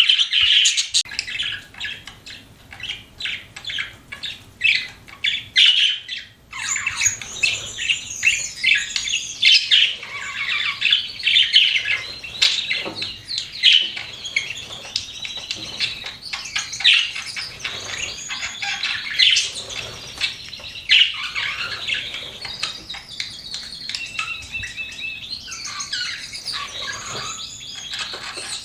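Pet budgerigars chirping and warbling in a dense, continuous chatter of quick high chirps and sliding notes, with a brief pause about six seconds in.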